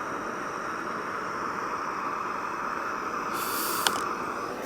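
Alpkit BruKit gas canister stove burning under a pot of water, a steady jet-like hiss. A brief sharper hiss with a click comes about three and a half seconds in.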